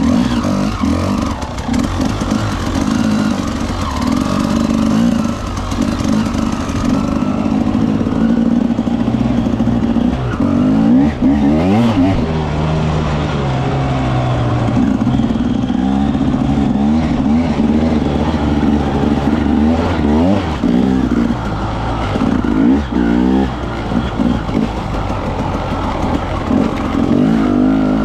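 Husqvarna TE300 single-cylinder, carburetted two-stroke enduro engine being ridden, its pitch rising and falling again and again as the throttle is opened and closed.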